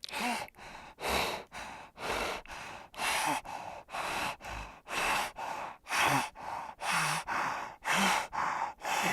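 An animal breathing hard in rhythmic, noisy puffs, about two a second, alternating stronger and weaker like breath in and breath out.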